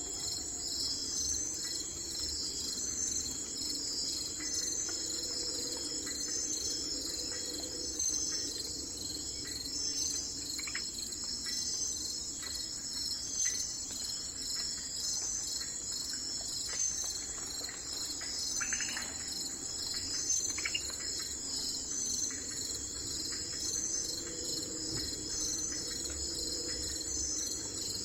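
A steady chorus of crickets: a dense, high, evenly pulsing trill. A few short bird chirps come through, mostly in the second half.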